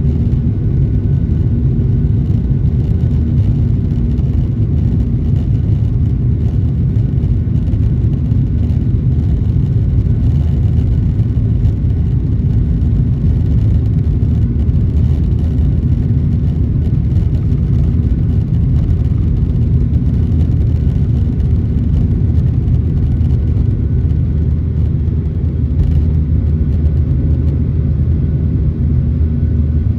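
Steady, loud rumble of a Boeing 737-800's CFM56-7B jet engines and airframe, heard from inside the passenger cabin.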